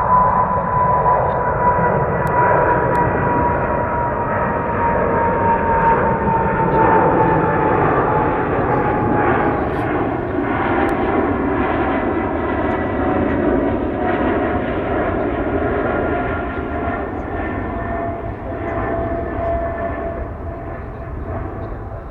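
Jet airliner engines on takeoff: a continuous roar with a high engine whine that slowly falls in pitch as the jet passes and moves away, easing off over the last few seconds.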